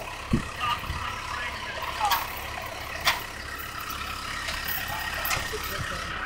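A truck engine idling with a steady low rumble, with a couple of sharp metal knocks and faint voices in the background.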